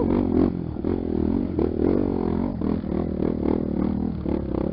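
Trail motorcycle engine running, its revs rising and falling, with short rattling clicks through the ride.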